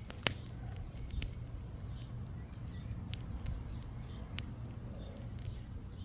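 Small wood campfire crackling: irregular sharp pops and snaps, one much louder pop near the start. Faint bird chirps in the background.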